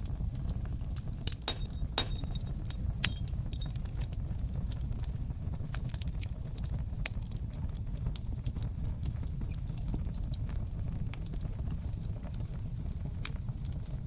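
Wood fire burning in an open stone fireplace: a steady low rumble with scattered sharp crackles, and a few louder pops in the first three seconds and again near the middle.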